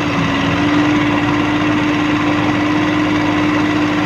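Sonalika tractor's diesel engine running steadily at an even pitch.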